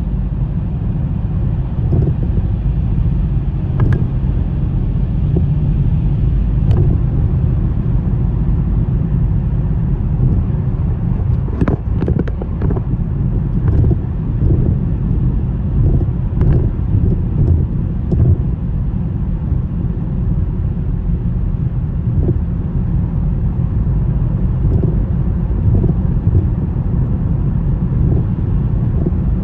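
Steady low rumble of a car driving through a snowstorm, with scattered sharp knocks and clicks, most of them around the middle.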